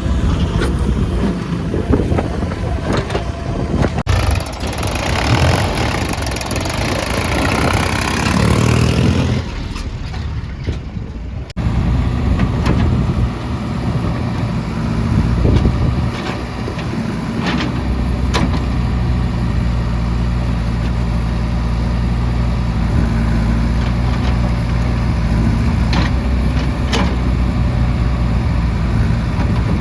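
Diesel engines of backhoe loaders and tractors running and revving under load. The engine sound changes abruptly twice in the first twelve seconds, then settles into a steady run, with a few sharp knocks later on.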